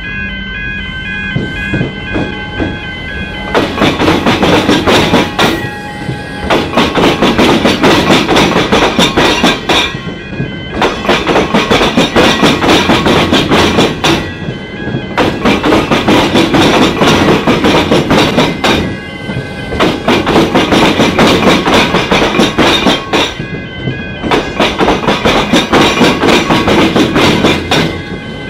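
A suburban electric train passing over a railway–tramway crossing (tram square), its wheels clattering loudly over the gaps in the crossed rails, with brief lulls every few seconds between the carriages' wheel sets. The train arrives a few seconds in. Level-crossing warning bells ring in a steady repeating pattern, clearest before the train arrives.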